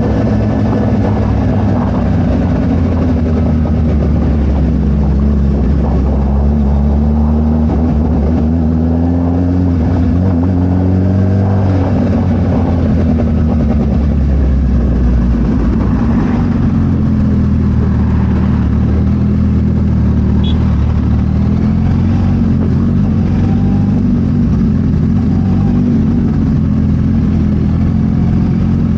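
Suzuki Hayabusa inline-four motorcycle engine breathing through a Brock's full carbon exhaust while being ridden. The engine note climbs over several seconds and drops back, twice, as the throttle and gears change.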